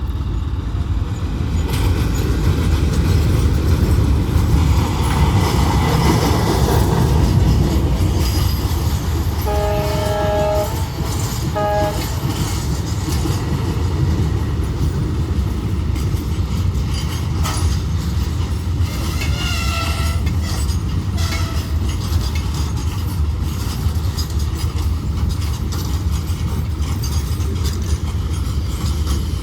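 A train running past with a steady low rumble and wheels clattering on the rails. Its horn sounds twice about ten seconds in: a blast of about a second, then a short toot.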